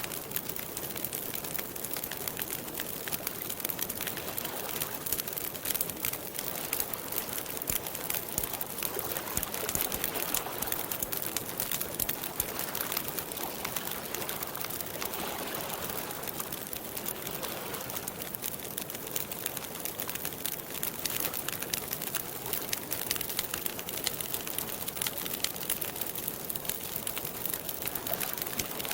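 Wood campfire crackling steadily, a dense run of small pops and snaps over a soft hiss.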